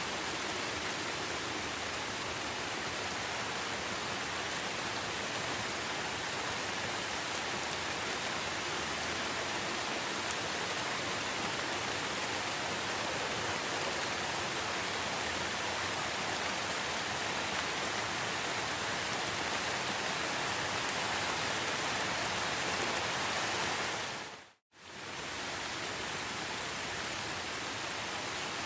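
Steady rain, an even hiss with no distinct drops or animal calls. About 24 seconds in it fades to silence for an instant, then comes back.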